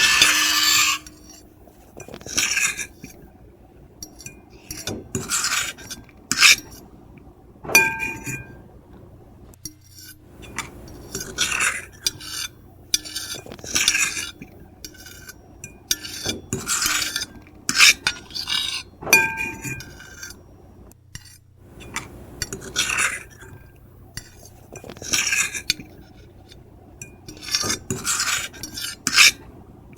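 Metal fork and knife scratching across a plate: a long, loud scrape stops about a second in, followed by short irregular scrapes and clinks, several leaving a brief ringing tone from the plate.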